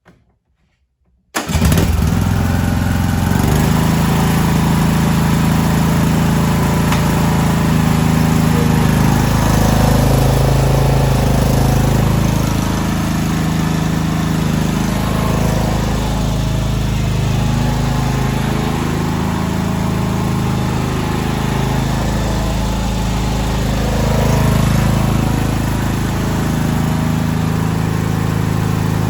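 A John Deere S100 lawn tractor's single-cylinder Briggs & Stratton gasoline engine running. It comes in suddenly about a second in and keeps going steadily, its pitch rising and falling slightly.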